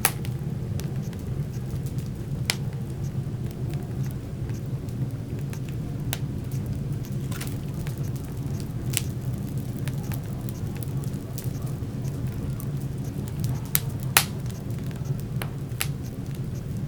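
Wood fire burning in a fireplace: a steady low rumble of flames with sharp crackles and pops every second or two. A pair of louder pops comes about two-thirds of the way through.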